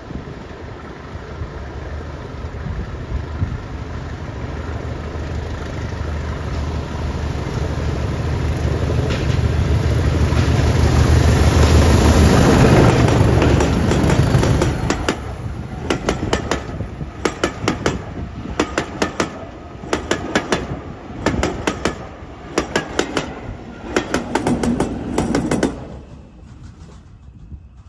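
Diesel locomotive hauling a passenger train approaches, its engine rumble growing louder until it passes about 12 seconds in. The coaches follow with their wheels clicking over the rail joints in a quick repeating rhythm, fading out near the end as the train goes by.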